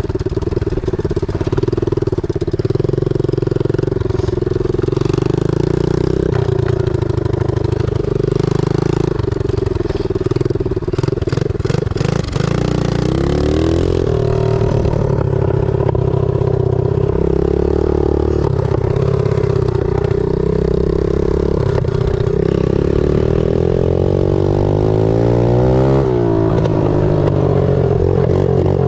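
Pit bike engine running hard under way, its pitch stepping up and down as it revs and shifts, with a couple of quick swoops in revs.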